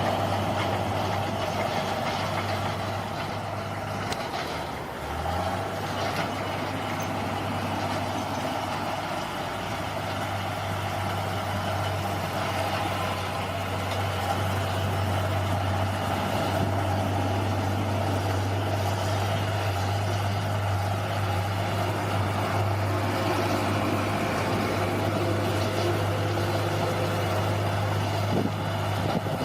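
Bulldozer's diesel engine running steadily, with a short dip in level about five seconds in.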